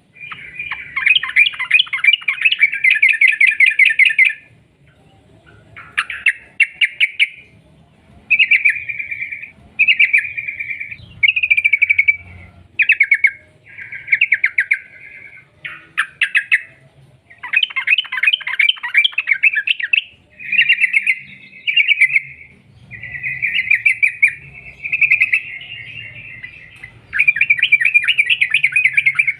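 Yellow-vented bulbul (trucukan) singing in long, rapid rolled phrases: quick runs of chattering notes, each phrase one to three seconds long, with short pauses between them.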